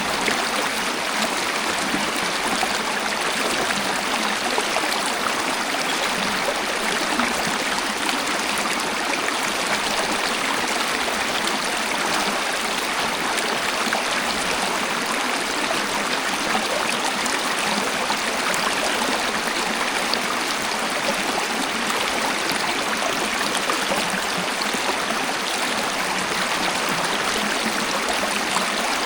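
Waterfall: water pouring and splashing in a steady, even rush, with little deep rumble.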